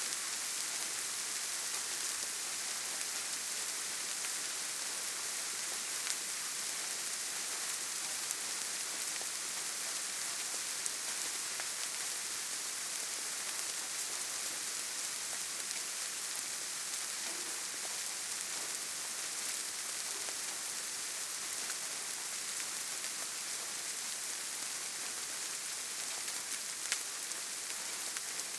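Steady rainfall, a dense even hiss of drops, with a few louder individual drops ticking now and then.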